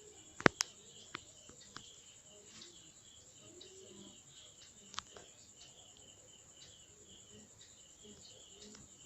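A few sharp knocks or clinks, the loudest about half a second in, smaller ones over the next second or so and one more about five seconds in, over faint high bird chirping.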